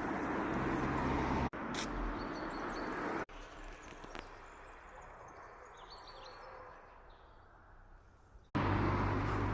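Outdoor ambience cut together from separate clips: steady background noise with a low hum, then after a sudden cut a quieter stretch with birds chirping, then the steady noise again, which returns abruptly near the end.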